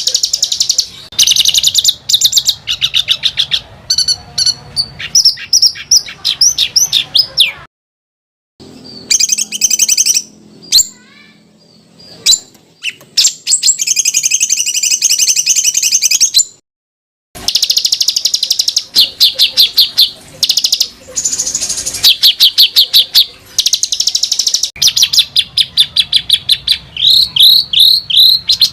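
Songbird song spliced together to train competition birds: tightly packed rapid rolls of repeated harsh chirps and fast sweeping notes, one run after another, broken by two brief silent gaps at the edits.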